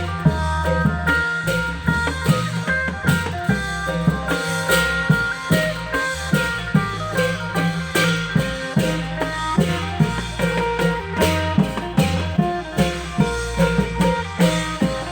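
Isan klong yao (long drum) troupe music: drums keep a steady beat under bass notes and a plucked-string melody.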